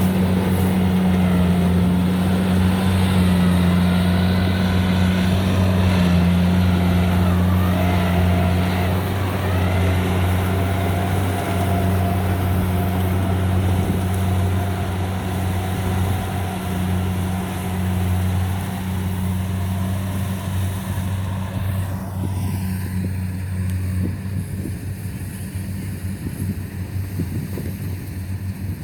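Rice combine harvester's diesel engine running steadily under load, a constant low drone with clattering machinery noise over it. It grows a little quieter and duller about two-thirds of the way through.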